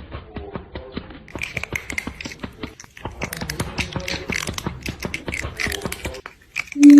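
A rapid, irregular run of clicks and taps. After a brief drop-out, a loud sustained chord of music begins just before the end.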